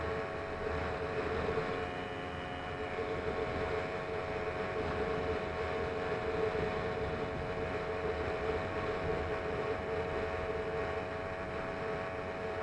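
Small engine of a motorized bicycle running at a steady speed, its pitch holding even throughout.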